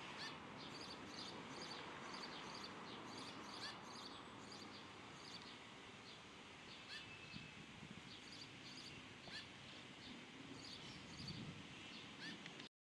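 Small birds chirping: many short high calls repeating over a steady background hiss. The sound cuts off abruptly near the end.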